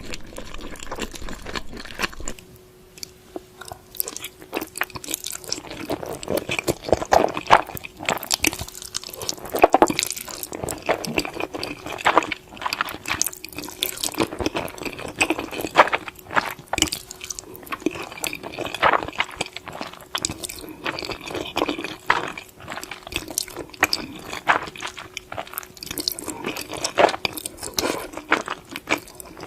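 Close-up wet chewing and slurping of noodles with chicken, with irregular smacks and clicks throughout.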